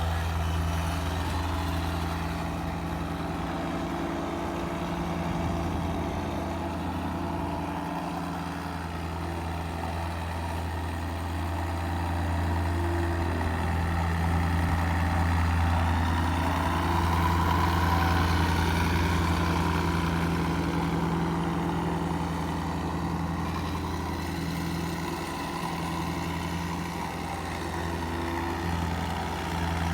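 A concrete mixer's engine running steadily, a little louder in the middle.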